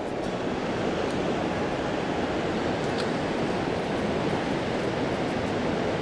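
Mountain stream water rushing steadily over rocks, the flow running full.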